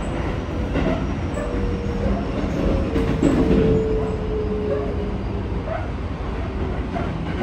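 Keikyu 1000 series commuter train running, heard inside the car: a steady rumble of wheels on rail with a few clicks over rail joints. Over it sounds the whine of the Toshiba IGBT-VVVF traction motors, falling slowly in pitch as the train slows.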